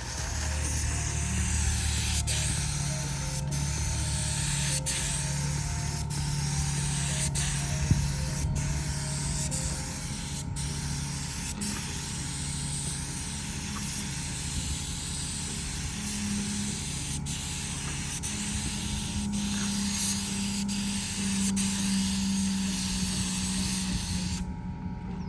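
Air spray paint gun hissing steadily, with brief breaks about once a second; the hiss cuts off shortly before the end.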